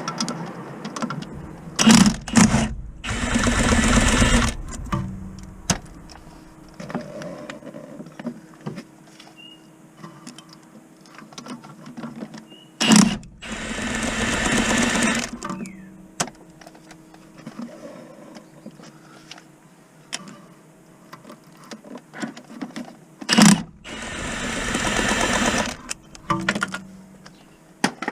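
A cordless power tool running in three short bursts of a second or two each, about ten seconds apart, each just after a sharp click. Small clicks and clatter of tools and parts come in between.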